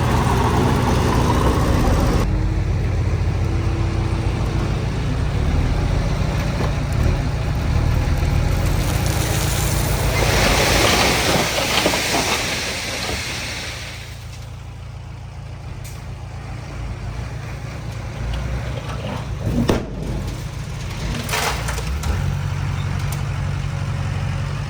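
Heavy diesel earthmoving machinery, a bulldozer and a dump truck, running steadily at a low rumble. About ten seconds in, a loud hiss lasts some four seconds. A couple of short knocks come near the end.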